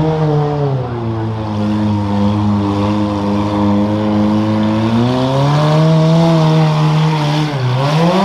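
SUV race vehicle's engine revving under load as it drives a rough dirt course: the pitch eases off about a second in, climbs again around five seconds, then dips briefly and rises sharply near the end.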